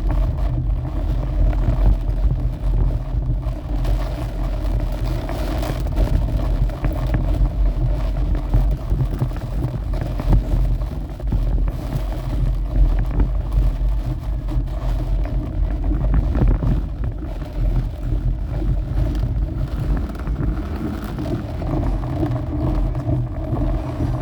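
Storm wind buffeting the microphone: a heavy, gusting low rumble with a steady hum underneath.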